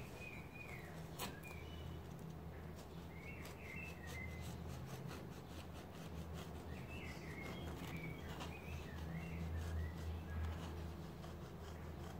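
A bird chirping and warbling in short phrases, several times, over a steady low hum. Faint scraping clicks come from a knife sawing through a baked cake on a wooden board.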